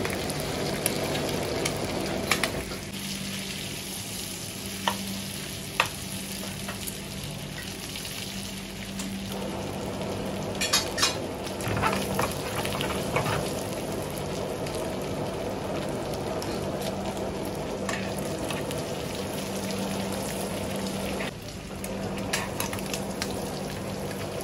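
Squid sizzling as it fries in oil in a frying pan, with scattered sharp pops and crackles over a steady low hum.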